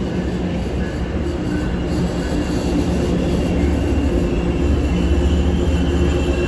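Diesel locomotive-hauled train running through the station, its engine holding a steady drone over a low rumble that grows slowly louder.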